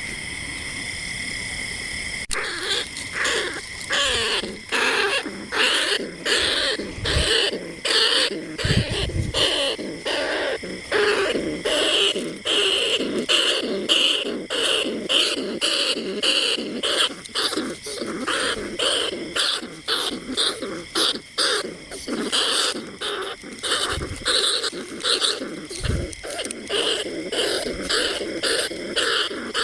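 Rat squeaks used as a lure call for bandicoot rats and field rats: a dense run of short, shrill calls, several each second. It opens with a steady high buzz for about two seconds.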